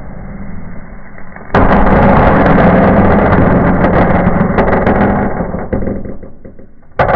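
Firework fountain going off: a dense crackling burst of many sharp pops starts suddenly about a second and a half in and slowly dies away over several seconds. Another burst of crackling starts near the end.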